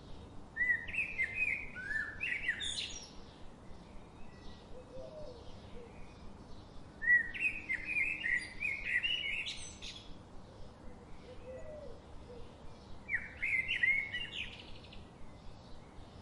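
A songbird singing three short phrases of quick chirping notes, each ending in a higher run, about a second in, around seven seconds in and around thirteen seconds in, over a steady background hiss.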